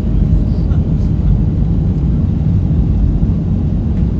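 Airbus A380's four jet engines at takeoff power, a steady low rumble.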